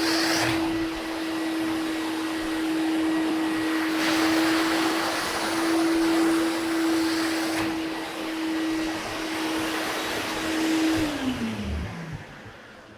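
Vacuum motor running steadily with a rushing air sound. It is switched off about eleven seconds in, and its pitch falls as it winds down.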